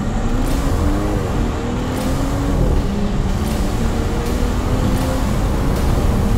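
The turbocharged inline-six of a BMW 7 Series (G12, B58 engine), heard from inside the cabin through an aftermarket H.DRIVE titanium exhaust. The car accelerates in manual mode and shifts up through the gears, the engine note climbing in each gear and dropping at each upshift.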